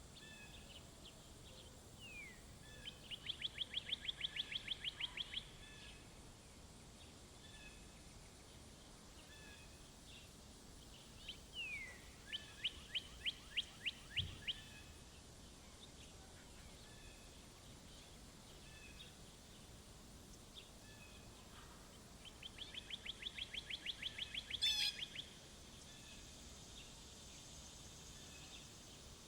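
A songbird singing a rapid trill of evenly repeated notes, each song about two to three seconds long, three times. Two of the songs open with a short falling note, and faint chirps of other birds come between them.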